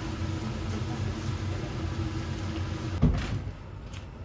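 A steady low rumble, then a single loud thump about three seconds in, after which the rumble drops away.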